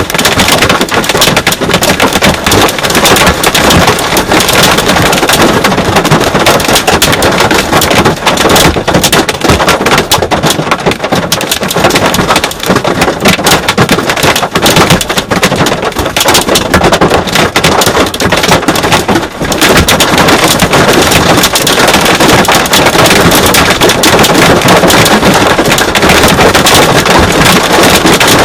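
Hail and heavy rain hitting a truck's roof and windshield: a dense, continuous clatter of impacts, heard from inside the cab.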